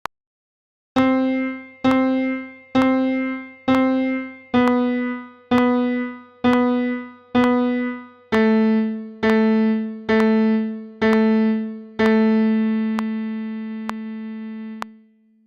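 Piano or digital keyboard playing slow, evenly spaced single notes, one note struck eight times at about one a second, then a lower note struck five times with the last one held and fading. A metronome-like tick keeps the beat, counting in before the first note and still faintly ticking under the held note.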